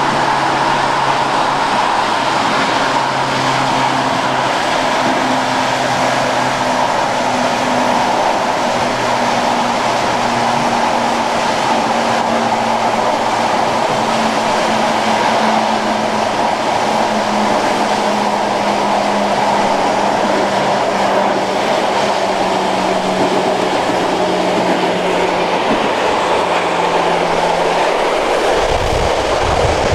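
Modernised SNCB AM80 electric multiple unit running at speed, its traction motor hum slowly falling in pitch as the train slows, over steady rolling noise from wheels and rails. Near the end a low rumble comes in.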